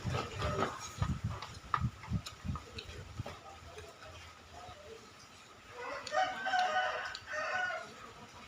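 A rooster crowing once, a loud call of about two seconds near the end, breaking in two. Low knocks and clicks come before it.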